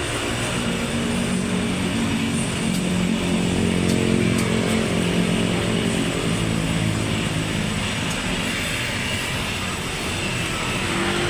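Honda Brio's four-cylinder engine running steadily through an aftermarket Arturo full-system exhaust, its note rising slightly near the end.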